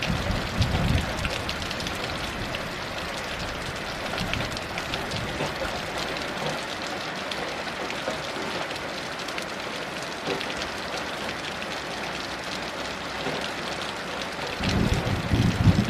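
Heavy rain falling steadily, with individual drops pattering through the hiss. Low rumbles of thunder swell in the first second and again near the end.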